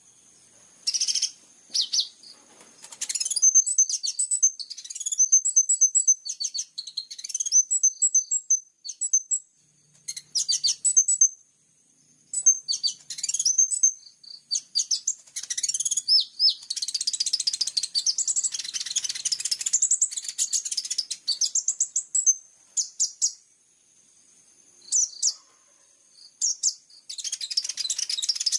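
Kolibri ninja sunbird singing a fast, high-pitched song of chirps, trills and twittering, in bouts broken by short pauses, with the densest twittering in the second half.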